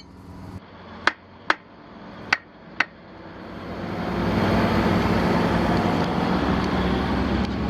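Four sharp metallic knocks in the first three seconds, then a vehicle engine running that grows louder over about a second and then holds steady.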